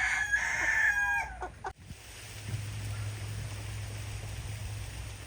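A rooster crowing, one call that falls away at the end about a second and a half in. After an abrupt cut, a steady low hum with a faint hiss follows.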